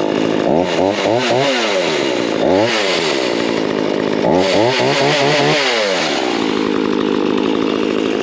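Forest King 40cc two-stroke chainsaw running just after a restart, revved up and down several times, then settling into a steady idle near the end. The new saw is being run through a heat cycle.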